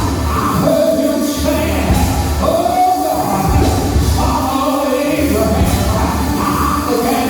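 Live church praise music: voices singing a melody over a band with a steady bass line.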